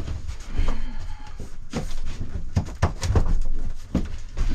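Irregular knocks and thumps as a small camper refrigerator is shifted and bumped into its cabinet opening.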